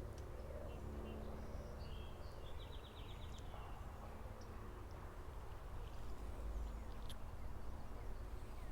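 Quiet creekside ambience: a steady low rumble on the microphone, with a short, fast bird trill about two and a half seconds in and a few faint clicks.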